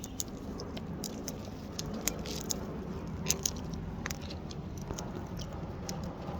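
Wild parrots eating close by: irregular small clicks and crunches of beaks nibbling food, over a low steady rumble.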